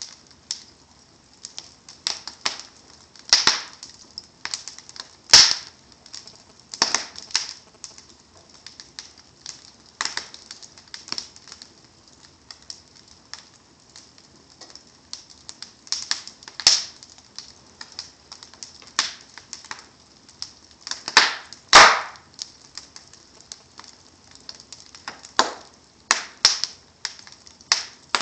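Wood fire burning in a fireplace, crackling and popping in irregular sharp clicks, with a few louder pops about five seconds in and near the twenty-two-second mark.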